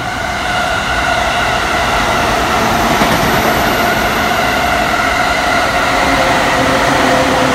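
Commuter train in JR East's green-and-orange Shonan livery running past a station platform, with steady rail noise from wheels on track. A few faint steady tones sit over the noise, which grows a little louder in the first second.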